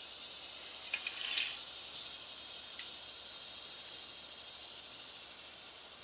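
A steady hiss that swells and fades slowly, with a few light clicks about a second in.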